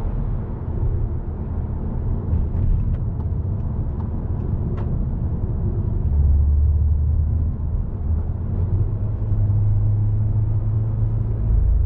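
Manual Mk7 Volkswagen Golf R's 2.0-litre turbocharged four-cylinder engine running under way with road noise, a steady low drone with the synthetic interior engine-sound enhancement switched off. The engine note steps to a deeper, stronger pitch about six seconds in and to a somewhat higher steady pitch from about nine seconds in as the revs change.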